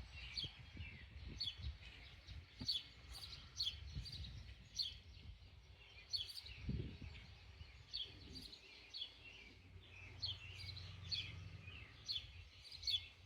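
Small birds chirping over and over, short falling chirps about every half second, over a low background rumble with a few dull thumps, the clearest about seven seconds in.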